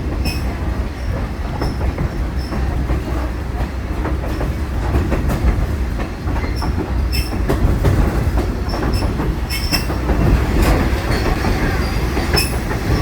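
Excursion train rolling along the track, heard from aboard: a steady low rumble of wheels on rail with irregular clacks and short high-pitched wheel squeals.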